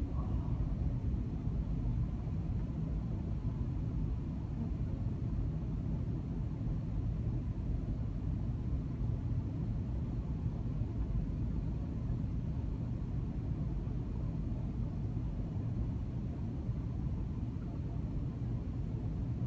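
Steady low rumble inside a jet airliner's cabin: engine and airframe noise while the plane rolls along the ground after landing.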